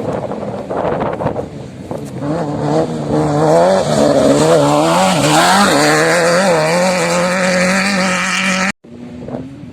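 An off-road vehicle's engine revving hard over wind and ground rumble, its pitch climbing and wavering as the throttle opens and eases. It cuts off abruptly about a second before the end, leaving quieter wind noise.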